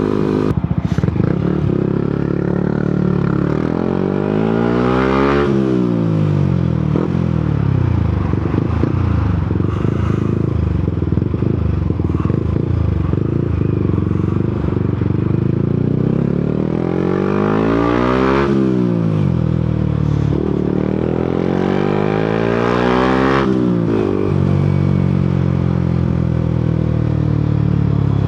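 Yamaha MT-125's single-cylinder four-stroke engine on the move, its revs climbing and falling back three times as the bike accelerates and slows, over a steady rush of riding noise.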